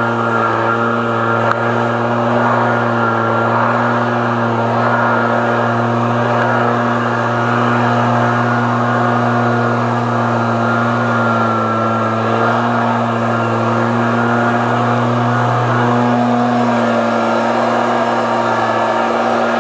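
Vehicle engine and road noise heard from inside the cab, running steadily while driving, with only slight rises and falls in pitch.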